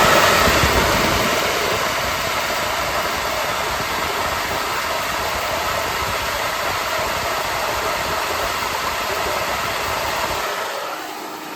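Cylinder-head flow bench running at test level 5, a steady loud rush of air drawn through an LS cathedral-port exhaust port. About ten and a half seconds in it winds down, the low rumble dropping away.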